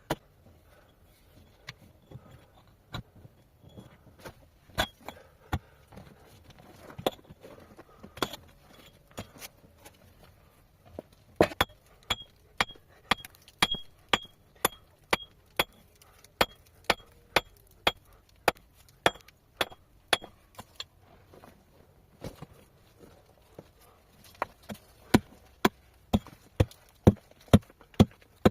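Repeated sharp blows of a metal tool on stone, chipping rock away, about one or two strikes a second, with a short high ring on many of them. The blows come faster through the middle stretch and again near the end.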